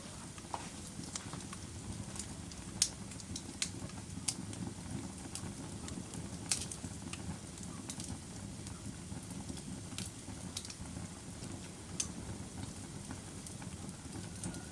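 Wood fire crackling: a steady low rumble from the flames with irregular sharp pops and snaps, the loudest about 3, 6.5 and 12 seconds in.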